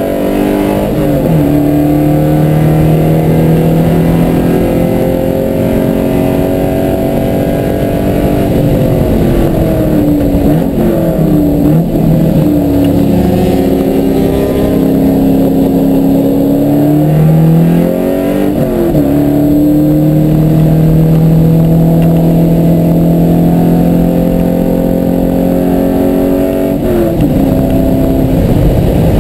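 Car engine at racing speed, heard from inside the cabin: revving hard through the gears, its pitch climbing under acceleration and falling and jumping at the gear changes, with a cluster of quick downshifts about ten seconds in.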